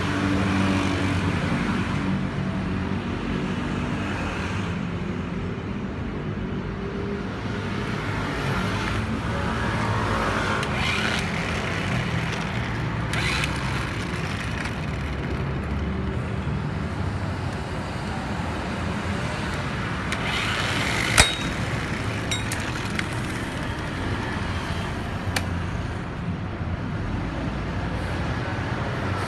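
A motor-vehicle engine runs steadily with a low hum, under general street noise. A single sharp metallic click comes about two-thirds of the way through, and a fainter one a few seconds later.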